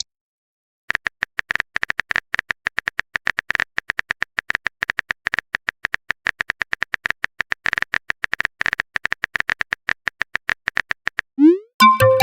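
Rapid, irregular electronic typing clicks, each with a short beep-like tone, as in a text-message typing sound effect. Near the end a quick rising sweep and a few synth tones sound.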